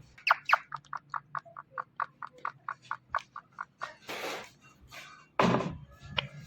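Indian ringneck parakeet giving a rapid run of short, even chirps, about five a second, for over three seconds, then two harsher, noisier calls, the second the loudest.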